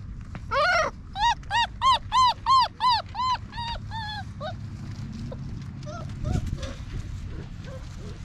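Basset hound puppy whining: one longer cry, then a quick run of about ten yelping whines, each rising and falling in pitch, about three a second, that trail off. Fainter whimpers follow in the second half.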